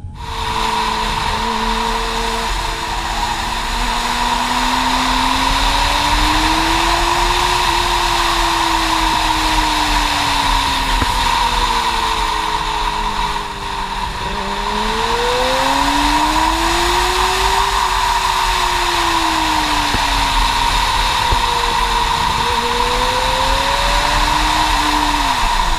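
Audi TT (stage 2+ tune) engine under hard driving, its note climbing and falling in long sweeps as it accelerates and lifts off. There is a sharp drop about halfway through and another just at the end. Constant wind and road noise runs underneath.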